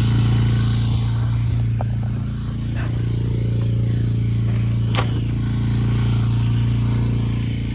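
Four-wheeler (ATV) engine idling steadily, with a few sharp clicks and knocks from the camera being handled.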